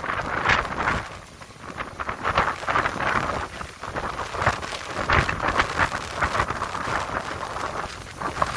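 Heavy rain pelting down in a storm, a dense hiss that swells and eases in gusts.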